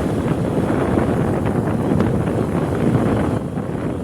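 Wind buffeting a phone's microphone on a moving motorcycle: a loud, rough rumble that eases slightly about three and a half seconds in. This is the wind noise that spoils phone-recorded motovlogs.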